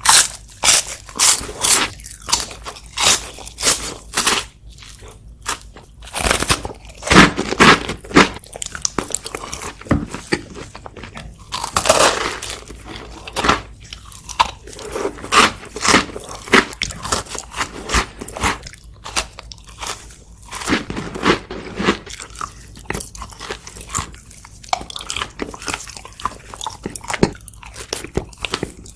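Close-miked eating sounds: crunchy bites and chewing of sweets, a quick, irregular run of sharp crunches with a few louder bursts of several crunches together.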